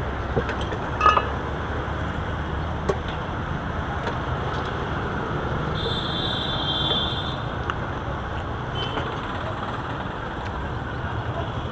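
Steady street traffic noise, a continuous rumble of passing vehicles with a few faint clicks and a short, faint high tone a little past the middle.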